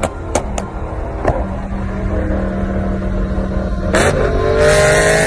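Car engine running steadily, then about four seconds in a car accelerates hard: a sudden loud burst of exhaust noise with the engine pitch rising. A few sharp clicks come in the first second.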